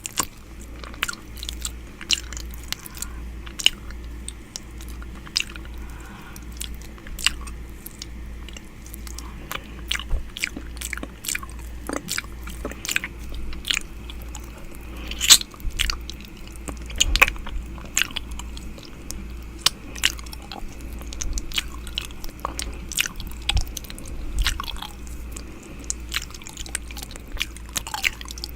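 ASMR 'ear eating' mouth sounds: wet, irregular clicks and smacks, several a second, made with the mouth right up against the microphone.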